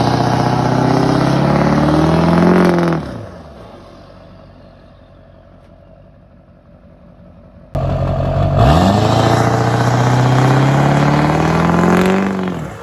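Straight-piped LB7 Duramax 6.6-litre V8 turbodiesel with an S366 turbo under hard throttle: the engine climbs in pitch, holds and then falls away, twice, the second time starting suddenly after a quieter stretch.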